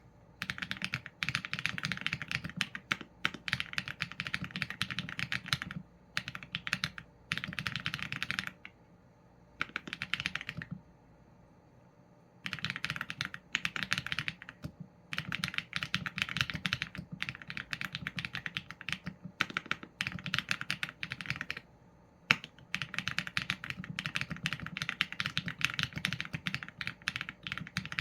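Typing on a Qsenn A75 mechanical keyboard with Leobog Graywood v4 linear switches and PBT keycaps: fast runs of keystrokes broken by short pauses, with a single louder keystroke a little before the 22-second mark.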